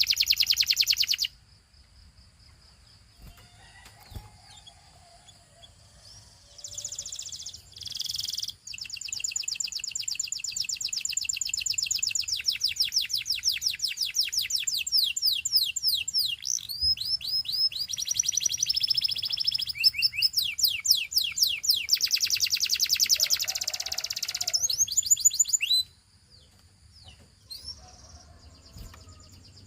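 Canary singing: long trills of fast repeated high notes in several phrases, with a pause of a few seconds near the start and another near the end.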